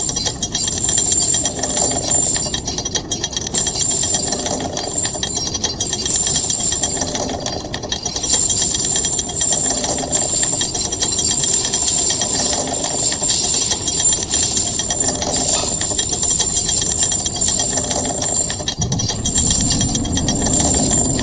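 A loud, harsh, machine-like noise that pulses about once a second.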